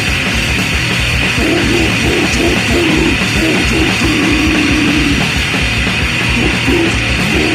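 Swedish crust punk demo recording: a heavily distorted guitar riff over fast, pounding drums and bass, with no vocals. The guitar riff comes in about a second and a half in.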